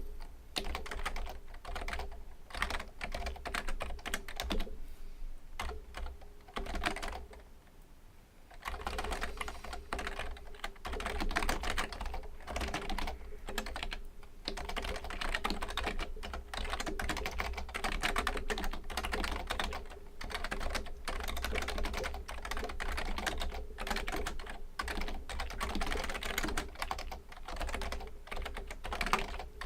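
Fujitsu Libertouch high-end membrane keyboard being typed on in fast, dense runs of key strokes, thinning to a short pause about eight seconds in before the typing picks up again.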